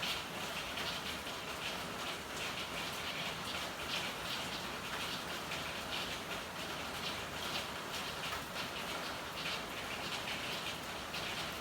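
Steady rain falling in an alley, a dense patter of drops hitting hard surfaces over an even hiss.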